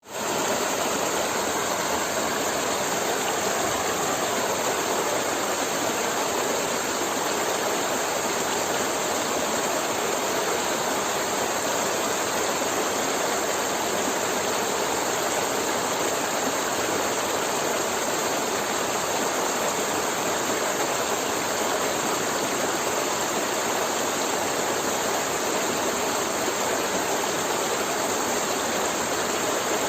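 Forest river flowing: a steady, even rush of water that fades in right at the start.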